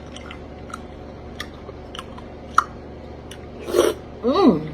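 A person chewing a mouthful of berries and ice, with scattered small wet clicks and crunches, then a short hummed voice sound near the end.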